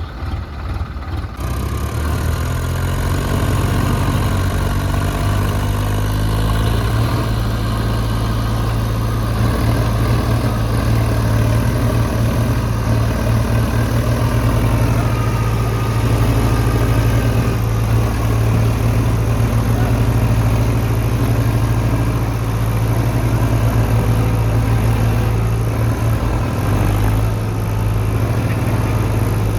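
Diesel tractor engine running steadily at a constant speed, coming up louder about two seconds in.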